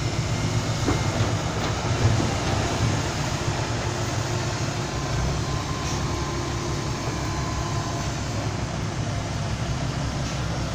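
Heavy diesel engines of a six-wheel dump truck and an excavator running steadily as the excavator loads soil into the truck.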